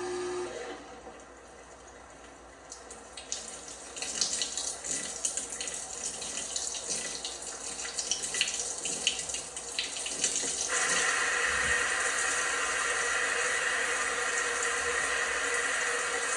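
LG washing machine filling with water: water rushes and splashes into the drum through the inlet. About eleven seconds in, the flow settles into a steadier hiss. Just before the water starts, a steady hum cuts off.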